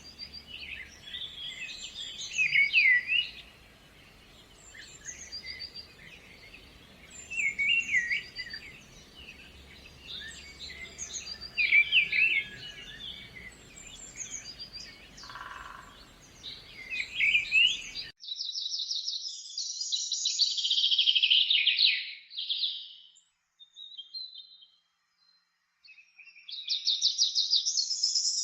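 Songbirds singing, short chirping phrases repeating every few seconds over a faint steady hiss. About two-thirds through, the sound changes abruptly to a cleaner recording of fast, high trills separated by short quiet gaps.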